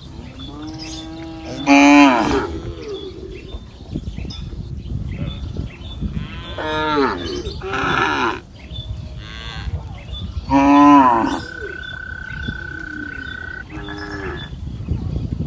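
Several cattle mooing one after another, with the loudest calls about two seconds in and near eleven seconds. A steady high tone sounds for about two seconds after the last loud moo.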